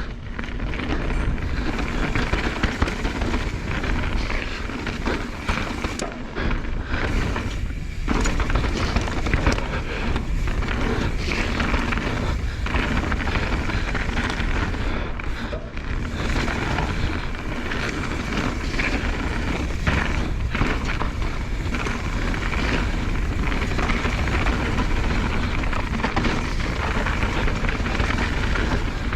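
Mountain bike ridden fast along a dirt trail: continuous tyre and wind noise with the bike rattling and knocking over bumps and roots.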